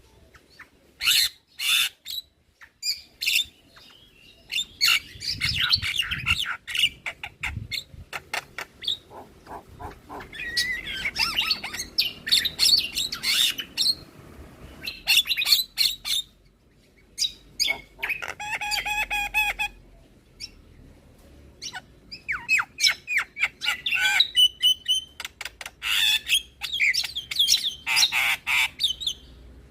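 Javan myna singing a varied, chattering song of harsh squawks, sharp chips and whistled notes in quick runs, broken by short pauses, with a buzzy rasping call about two-thirds of the way through.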